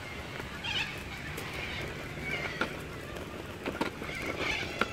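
Birds calling: short wavering calls recurring every second or two, with a few light clicks in between.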